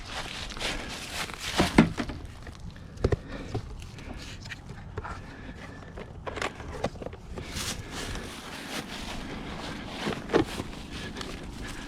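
Bird feeder and seed container being handled while the feeder is topped up with sunflower seed: scattered knocks and clicks over a soft rustle of seed.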